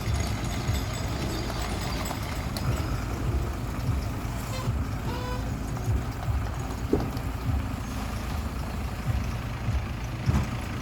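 Steady low rumble of vehicle engines, trucks idling and maneuvering boat trailers at a busy launch ramp.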